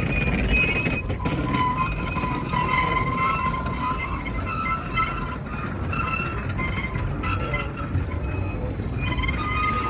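Narrow-gauge train hauled by the Andrew Barclay steam locomotive Granton No. 9, running on the track: a steady low rumble with thin, wavering high-pitched tones over it throughout.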